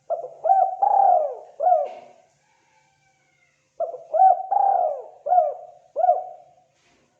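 Spotted dove (tekukur, derkuku) cooing: two phrases of four to five rounded coos, with a pause of about a second and a half between them.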